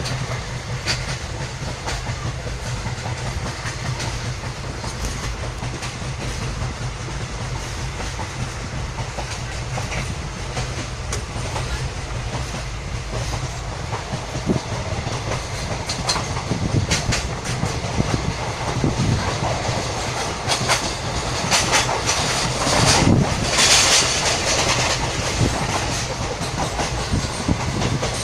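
Train running along the track, heard from on board: a steady rumble of the wheels with the clickety-clack of rail joints. It grows louder and harsher about three-quarters of the way through.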